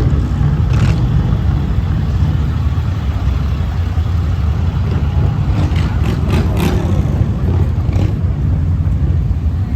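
Motorcycle engines running in a steady low rumble, with a few short sharp clicks about six seconds in.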